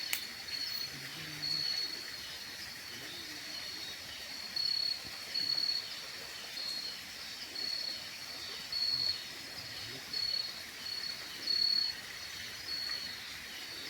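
Night insects, crickets or the like, chirping in a steady high trill that swells louder in short pulses every second or so. A single sharp click sounds just after the start.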